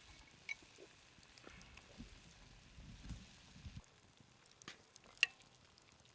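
Faint sizzling of food cooking over a campfire, with scattered small clicks and taps. A sharper single click about five seconds in is the loudest sound.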